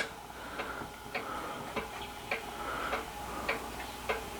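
Regular light ticking, a little under two ticks a second, over a faint steady hum.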